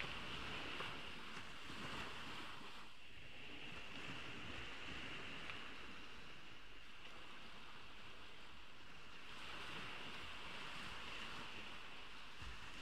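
Ocean waves washing onto a beach, the surf swelling near the start and again about ten seconds in.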